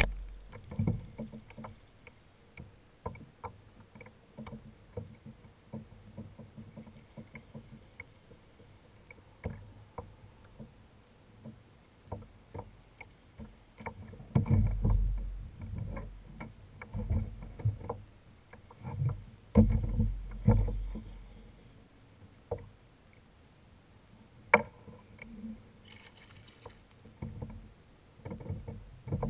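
Handling sounds aboard a fishing kayak: scattered light knocks and clicks, with a few stretches of low rumbling and one sharper click a few seconds before the end.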